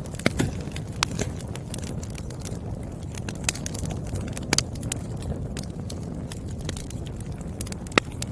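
Burning firewood crackling: irregular sharp pops and snaps over a steady low rumble of the flames, the sharpest pop near the end.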